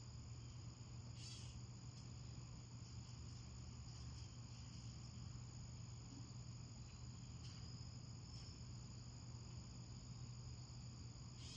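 Faint, steady chirring of crickets in a nature-sounds backdrop, over a low steady hum. A brief click comes about a second in.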